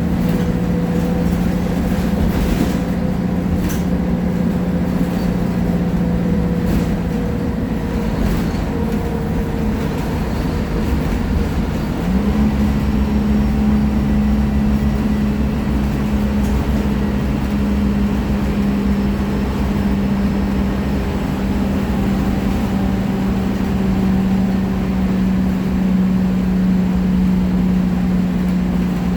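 Scania K310IA bus engine running steadily under way. Its note steps up in pitch about twelve seconds in and then holds at the higher pitch, over a steady rumble.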